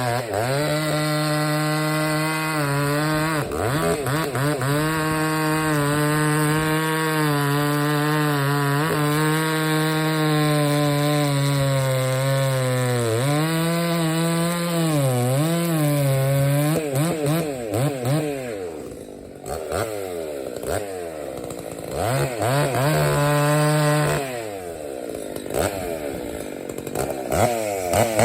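Husqvarna 266SE two-stroke chainsaw, about 67 cc, held at full throttle through cuts in a log. Its pitch dips and wavers as the chain loads up in the wood. About two-thirds of the way through it drops back toward idle, then revs up again for another cut and eases off near the end.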